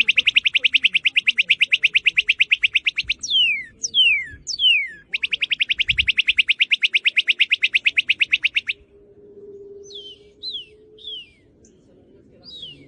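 Northern cardinal singing: clear down-slurred whistles alternating with two long, loud trills of rapidly repeated notes, about a dozen a second, then a few softer falling whistles near the end.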